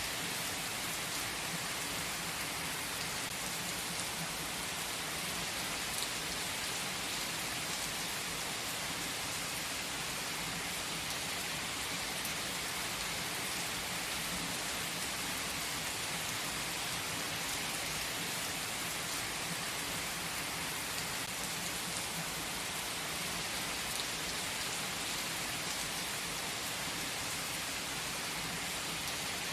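Steady rain ambience: an even hiss of rain falling on a surface, with a few faint drop ticks and no change in level.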